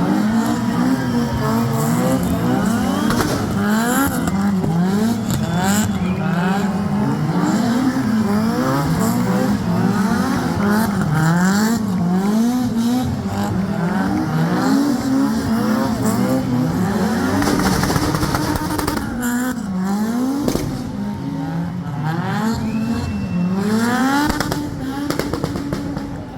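Rally car engine revving hard, its pitch climbing and dropping over and over as it is worked up and down through the gears.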